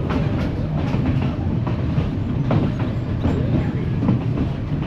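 East Broad Top narrow-gauge passenger coach rolling along the track: a steady rumble of the running car with irregular clicks and rattles from the wheels and car body.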